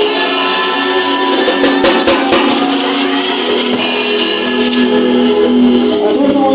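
Live worship band music with a drum kit playing under sustained held notes, with a few drum hits standing out about two seconds in.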